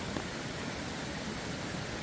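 A steady, even hiss of water noise, with a few faint ticks.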